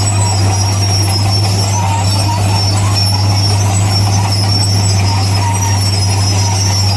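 Heavy diesel earthmoving machinery running steadily under load, with a constant low engine drone and a faint high, wavering whine over it.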